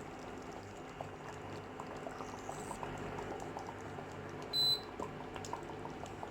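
Fish curry with coconut milk bubbling in the pan at a simmer, with a steady hiss and many small pops. A brief high-pitched tone sounds about four and a half seconds in.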